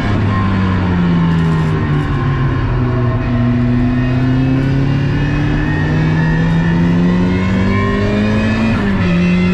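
Turbocharged 1.8-litre four-cylinder engine of a track-built Mazda MX-5 running hard on track. Its note sinks slowly for a few seconds, then climbs steadily under load, with a short drop in pitch near the end.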